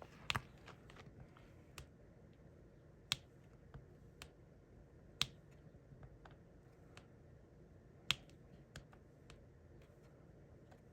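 Irregular sharp clicks and light taps of a diamond painting drill pen pressing resin drills onto the canvas: a few louder clicks a couple of seconds apart, with fainter ticks between.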